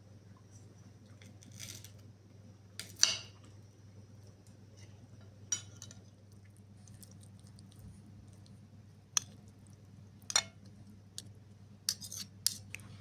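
Kitchenware clinking: a handful of sharp clinks and knocks, the loudest about three seconds in and a quick cluster near the end, over a steady low hum.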